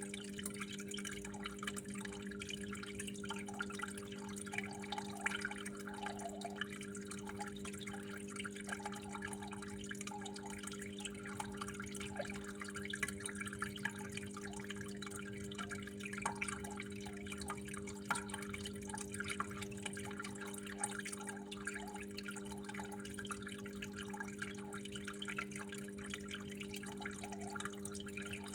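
Water trickling and dripping steadily, with many small irregular drips and splashes, over a steady low hum.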